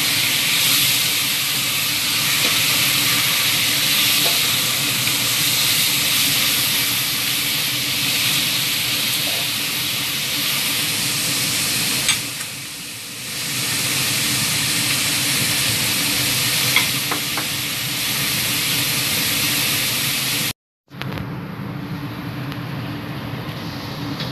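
Chicken pieces sizzling as they fry in a wok on a gas stove, a steady hiss with a couple of sharp knocks of the spatula against the pan. After a brief break about twenty seconds in, the sound turns duller and lower as the chicken cooks in its sauce.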